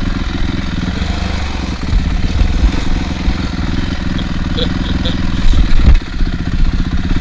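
Honda CRF450R dirt bike's single-cylinder four-stroke engine running at low revs while ridden slowly on a trail, a pace it hates. A few loud knocks come about five and a half to six seconds in.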